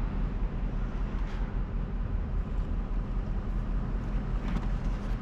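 A vehicle driving along: steady low engine and road rumble.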